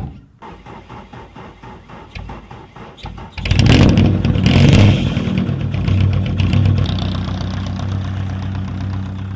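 Light aircraft's piston engine being cranked by its starter, turning over about three times a second, then catching a little over three seconds in and running on steadily.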